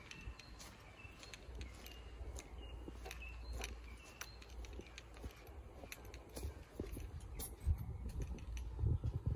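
A bird chirping over and over in short high notes, over a low rumble on the microphone, with footsteps and a few louder low thumps near the end.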